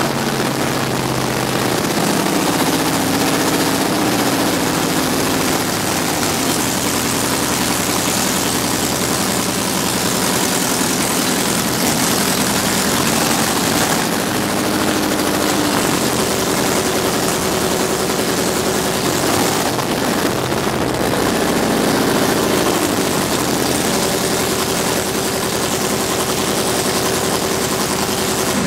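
Corvette's LS1 V8 running loud on open headers with no exhaust attached, on its first start after a rebuild. It holds a steady idle with small shifts in pitch.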